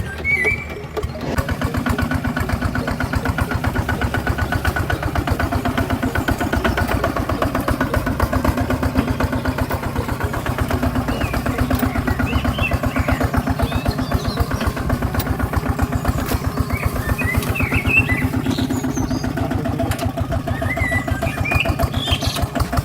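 Small engine running steadily with a fast, even pulsing beat, starting about a second in, with a few faint high chirps over it.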